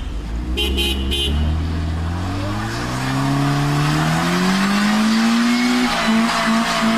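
A motor vehicle's engine revs up steadily as it accelerates, its pitch climbing for about five seconds. Three short beeps sound about a second in. After that, a pulsing tone repeats about three times a second over the engine.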